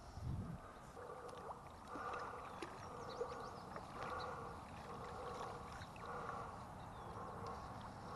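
River water gurgling and lapping, swelling and easing about every two seconds, with a few faint ticks.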